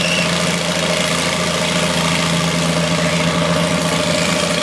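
Tractor engine running steadily at an even pitch, as at a tractor pull.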